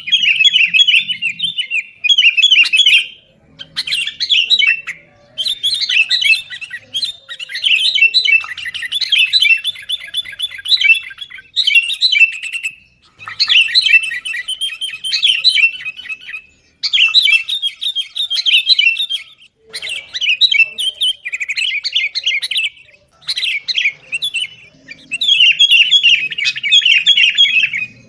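Sooty-headed bulbul (kutilang) giving loud, rapid chattering calls in repeated bursts of one to two seconds with short pauses between them. This is the noisy, agitated calling used as a lure to set other bulbuls calling.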